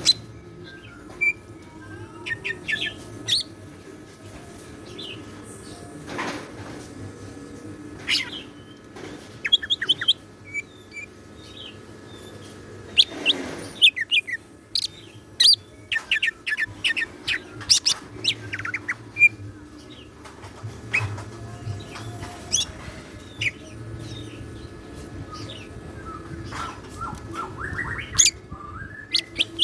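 Greater green leafbird (cucak ijo) singing in bursts of sharp, high chirps and quick trills, busiest in the second half, over a faint steady hum.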